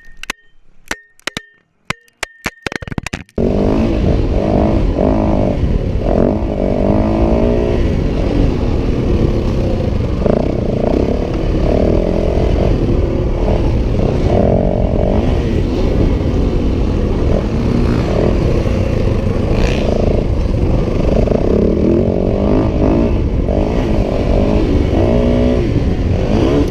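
A few sharp clicks and short high beeps, then about three seconds in a motorcycle engine starts running loudly, its pitch rising and dropping again and again as it accelerates and shifts, under a heavy rumble of wind on the microphone.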